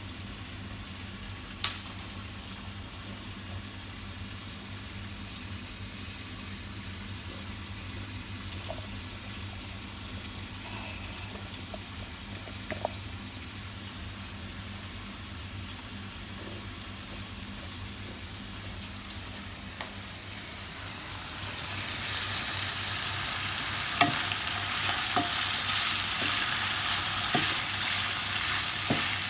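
Chicken, onion and bell pepper strips frying in a pan: a faint sizzle that grows much louder about three-quarters of the way in, with utensil clicks against the pan from the stirring. A steady low hum runs underneath, and there is one sharp click near the start.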